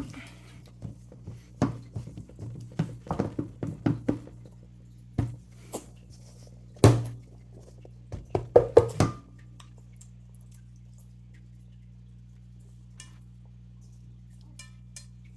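Cookie dough being mixed by hand in a bowl: irregular knocks and clatters against the bowl for the first nine seconds or so, then only a low steady hum.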